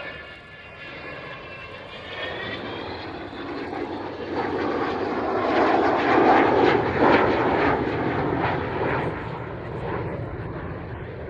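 Avro Vulcan's four Rolls-Royce Olympus turbojets passing: the Vulcan howl starts as a high whistle gliding upward, then a jet roar builds to its loudest about halfway and fades.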